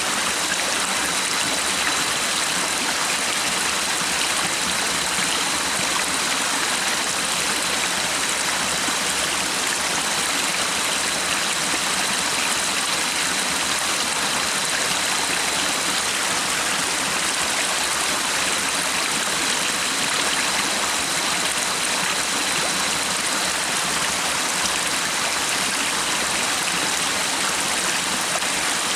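A stream of running water, a steady rushing sound with no break, with a faint thin high tone coming and going over it.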